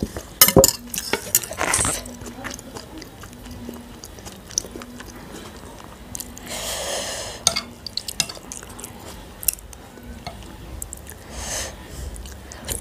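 Close-miked mukbang eating sounds: chewing and mouth noises from spoonfuls of food, with a few sharp clicks of a metal spoon on china plates near the start.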